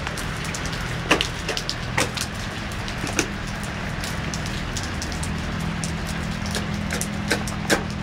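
Steady rain falling, with heavy drops splashing close by now and then, the loudest about a second in and near the end. A low steady hum lies underneath.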